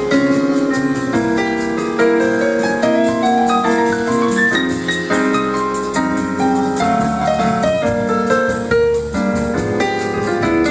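Live jazz combo playing an instrumental passage, with the piano out in front moving through a melodic line over chords, backed by bass and drums.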